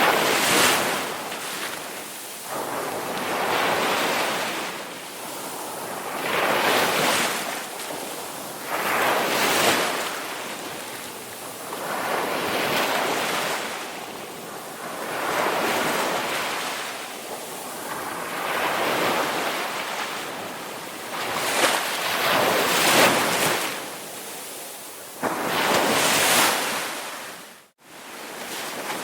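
Ocean waves breaking and washing on a shore, surging and receding every two to three seconds. The sound cuts out for a split second near the end.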